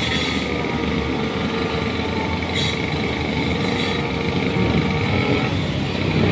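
An engine running steadily, with a dense low rumble and a few faint high ticks.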